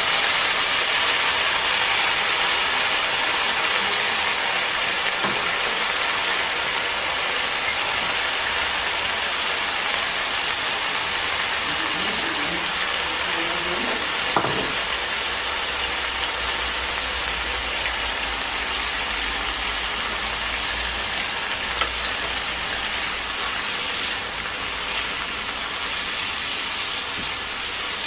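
Shrimp, green beans and shiitake mushrooms sizzling steadily in soy sauce and oil in a nonstick wok. A wooden spatula stirs them and knocks the pan twice.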